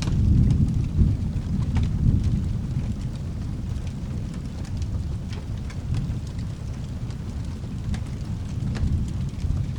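Low rolling thunder, loudest in the first couple of seconds and then easing into a steady rumble under constant rain, with scattered faint clicks and crackles.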